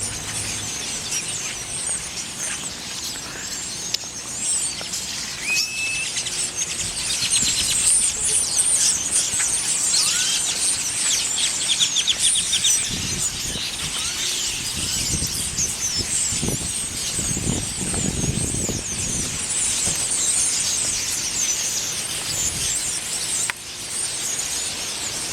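A huge flock of birds calling all at once: a dense, continuous, high squeaky chatter of many overlapping chirps and whistles. A low rumble swells and fades in the middle.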